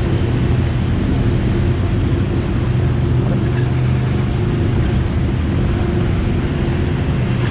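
Steady low engine hum, even and unchanging, heard from inside a car's cabin.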